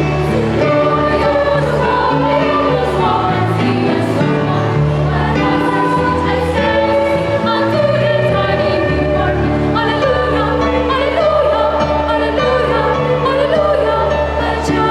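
Children's choir singing a Christmas carol in several parts, over sustained low accompanying notes.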